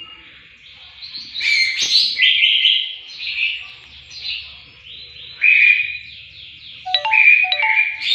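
Green leafbird (cucak hijau) singing: loud, varied phrases of rapid chirps and trills with short pauses between them, a few lower notes mixed in near the end.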